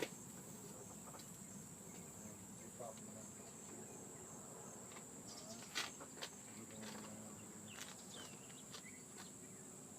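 Faint, steady high-pitched insect trilling, with scattered light clicks and a few short chirps.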